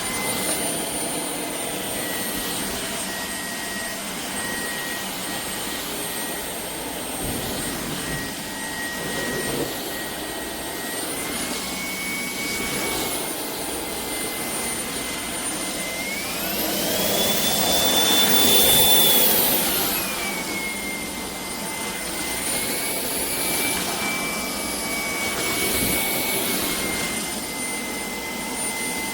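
Shark cordless stick vacuum's motor running with a steady high whine. It steps up slightly in pitch partway through, then rises sharply and grows louder for a few seconds as the motor speeds up, before dropping back to its earlier pitch.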